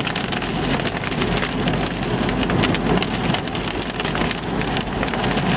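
Heavy rain and hail pelting the roof and windshield of a truck, heard from inside the cab as a dense, steady patter of hard clicks.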